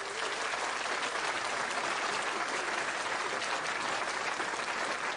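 Crowd applauding: a dense, steady round of clapping.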